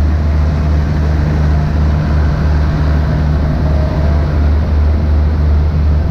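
Steady low drone of an idling diesel passenger train, with a fainter hum above it that drops away about three and a half seconds in.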